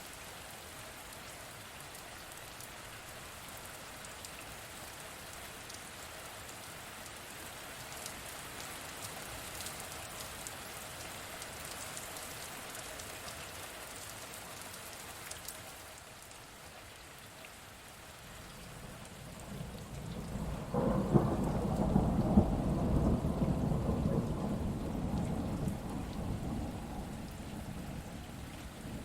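Steady rain falling, joined about two-thirds of the way in by a long rumble of thunder that swells, peaks and slowly fades.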